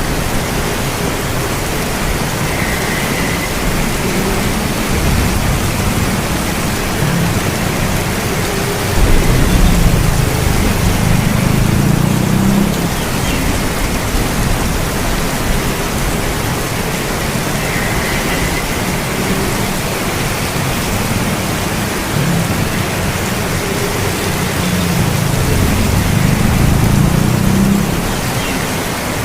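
Steady rain with two low rolls of thunder, one about a third of the way in and one near the end.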